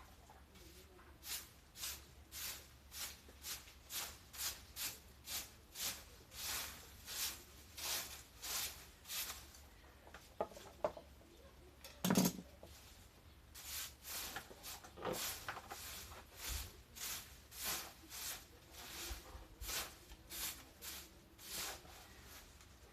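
Hand garden shears snipping through overgrown plants in a steady rhythm, about two cuts a second, with a short pause and a single louder knock about twelve seconds in.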